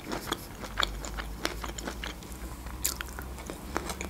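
Close-miked chewing of food, with many small irregular mouth clicks and crackles.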